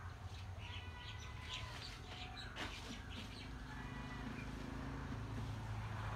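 Birds chirping in short calls over a steady low hum, with a single sharp snap about two and a half seconds in.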